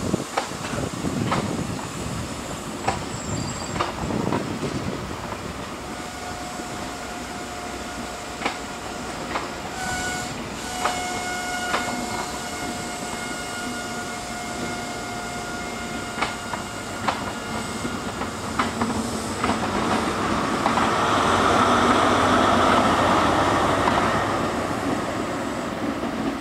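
InterCity 125 (HST) set passing slowly: its wheels click over rail joints as the Mk3 coaches roll by, with a thin steady squeal from the wheels in the middle. Near the end the trailing Class 43 power car's engine and fans swell louder as it passes close by, then ease off.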